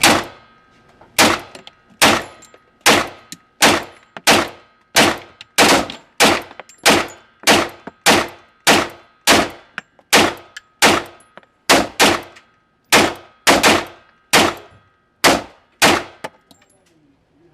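FN 510 Tactical 10mm pistol fired in a steady string of about twenty shots, a little under a second apart, each with a short ringing echo; the firing stops about a second and a half before the end.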